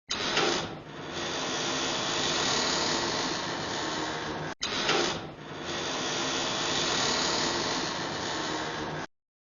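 Horror-style door-opening sound effect: a long, noisy wooden door creak of about four and a half seconds that starts loud, played twice in a row with a short gap between.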